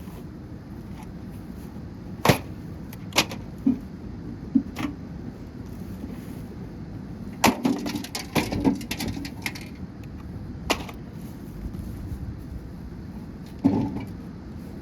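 A microwave oven being smashed apart: a series of sharp cracks and knocks, with a quick cluster of them about halfway through and single ones before and after.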